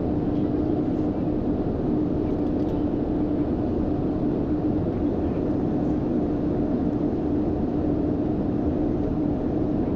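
Airliner cabin noise in flight: a steady rush of engine and air noise with a constant low hum.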